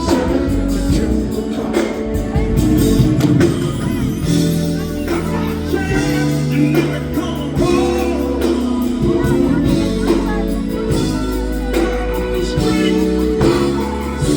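Live funk/R&B band playing a slow groove, with a steady bass line under sung vocals.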